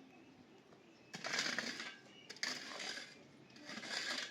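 Three rhythmic scraping strokes about a second apart, starting about a second in, each a short rasping burst of noise.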